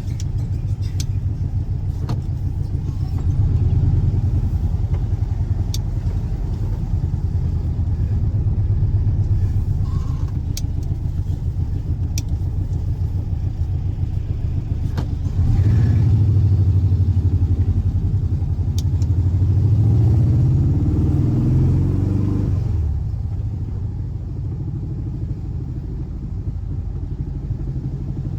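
Air-cooled 1584 cc flat-four boxer engine of a Volkswagen Beetle running steadily. It is revved up briefly a few times, most clearly between about 15 and 22 seconds in, then settles back to a quieter idle.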